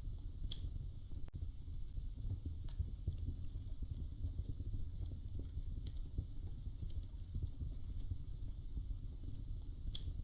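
Wood fire crackling in a fireplace: a steady low rumble of flames with dense small crackles and a few sharper pops.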